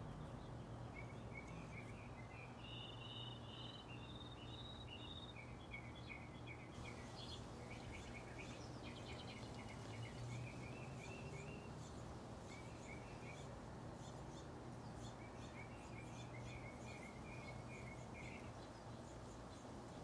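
Small birds singing in strings of quick, repeated chirping notes over a faint, steady low hum.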